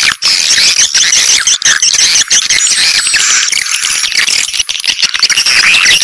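A dense chorus of swiftlets twittering: many rapid, high chirps overlapping without a break, with sharp clicks scattered through. It is a swiftlet lure call, the kind played to draw the birds into a swiftlet house.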